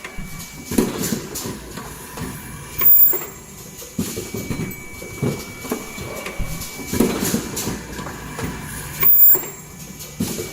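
Automatic N95 cup mask making machine running: a continuous irregular mechanical clatter under a thin steady high tone, with two louder short bursts, about three seconds in and again near nine seconds.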